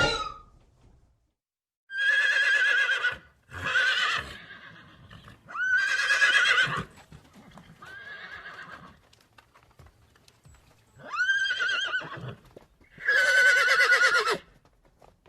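Horse neighing repeatedly: about six whinnies, each a second or so long with a quavering pitch, spaced a second or two apart.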